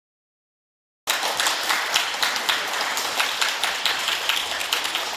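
Audience applauding: many people clapping, starting suddenly about a second in and slowly dying down toward the end.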